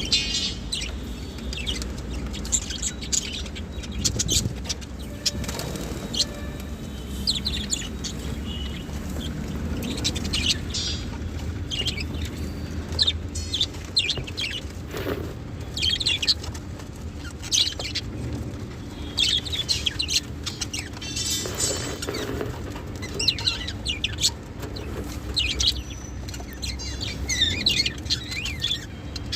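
Small birds chirping and tweeting in quick, repeated short calls throughout, over a steady low hum.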